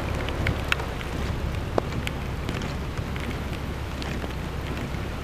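Storm wind and rain: a steady low rumble of wind with scattered sharp ticks of raindrops striking.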